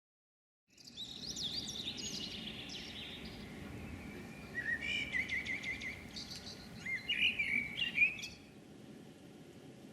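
Songbirds chirping and singing in quick trills over the steady hiss of heavy rain. The birdsong stops about eight seconds in, leaving the rain alone.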